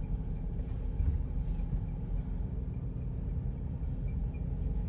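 Lifted Toyota pickup truck driving at low speed: a steady low engine and road rumble.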